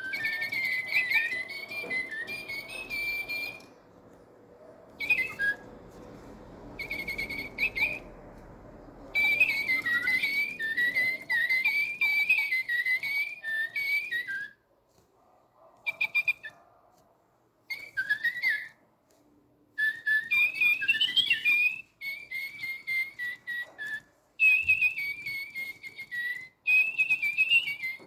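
Little Live Pets battery-powered toy birds chirping and warbling a high whistled song. The song comes in phrases lasting from under a second to several seconds, with short pauses between them.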